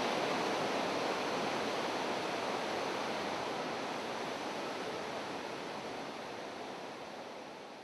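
Steady rushing noise that slowly fades away toward the end.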